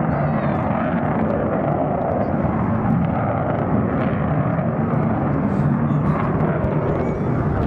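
An aircraft's engine noise, running steadily and loudly throughout.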